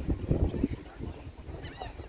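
Wind buffeting the microphone, loudest in the first half-second, with a short high call near the end.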